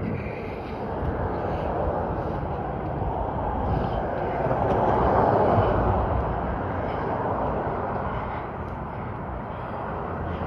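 A vehicle passing on the road: a haze of tyre and road noise swells, is loudest about five seconds in, then fades.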